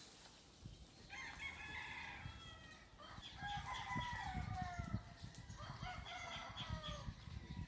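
Rooster crowing, three long crows in a row at moderate-low volume.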